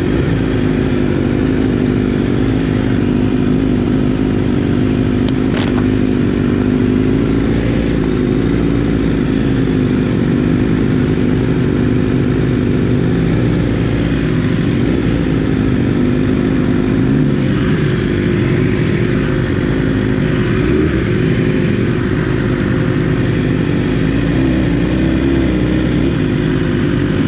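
Motorcycle engine running steadily, its drone wavering slightly in pitch, with one brief click about five and a half seconds in.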